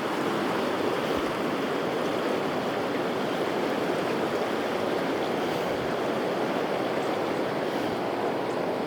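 Kern River rapids rushing: a steady, even roar of fast-flowing water.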